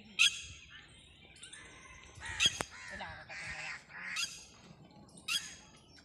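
Wild birds calling: four short, loud, harsh calls a second or two apart, with fainter calls in between.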